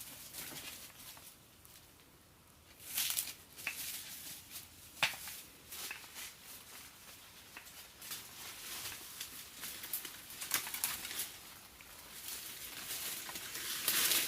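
Irregular rustling and crinkling with scattered light clicks and taps, louder in a few short clusters.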